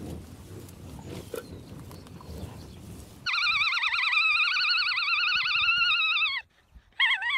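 Alpaca calling: a loud, high call with a quickly wavering pitch, held for about three seconds, then broken off, with a second call starting near the end. Before it, about three seconds of low noise with a few faint clicks.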